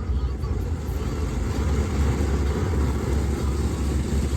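Automatic car wash heard from inside the car's cabin: a steady low rumble with an even rushing noise over it.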